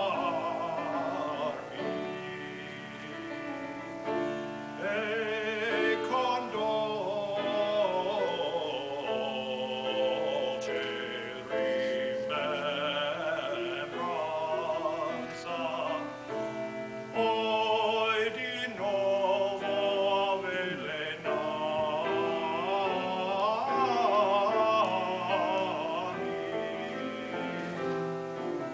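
Classical solo voice singing a 17th-century Italian aria with a wide vibrato over steady instrumental accompaniment, with long sustained and ornamented notes.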